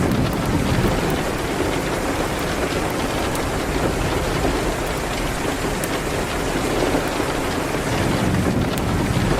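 Steady rain, an even unbroken hiss with a low rumble underneath and scattered faint ticks of drops.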